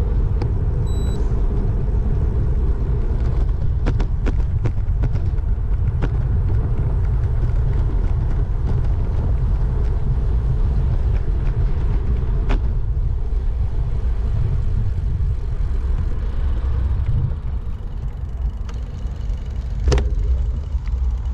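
Steady low rumble of wind buffeting the microphone and road noise while moving along the road, easing a little near the end. A short high beep comes about a second in, and a single sharp knock comes shortly before the end.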